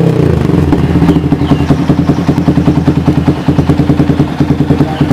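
Yamaha New Vixion Advance GP's single-cylinder four-stroke engine idling through an Akrapovic megaphone racing exhaust, with even, loud exhaust pulses. It settles back to idle from a rev right at the start.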